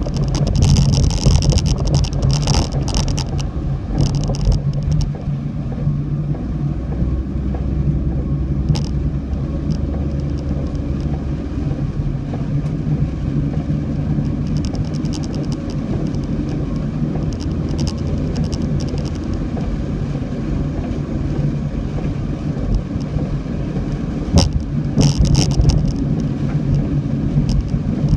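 Car driving: a steady low rumble of engine and road noise. Patches of higher crackling hiss come through in the first few seconds and again near the end.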